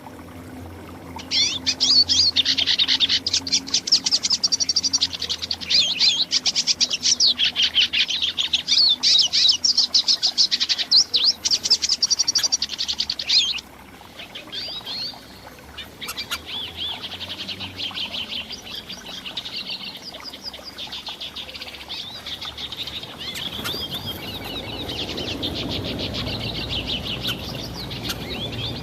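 Small songbirds chirping and chattering together in a dense, rapid, high chorus that cuts off abruptly about halfway through, followed by softer continuous chirping. A low rumble joins near the end.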